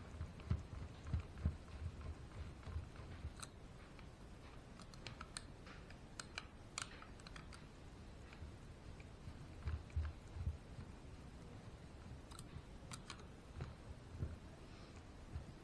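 Small parts being handled on a workbench: scattered light clicks and taps, with a few soft low thumps.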